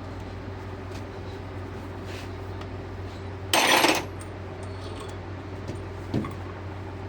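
Metal tools or parts clanking during disassembly: one loud metallic clatter lasting about half a second midway, and a lighter knock near the end, over a steady low hum.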